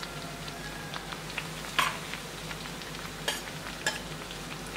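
Bread pieces sizzling steadily as they fry in oil in a steel pan, with three sharp clinks of a metal skimmer against the pan, the loudest about two seconds in.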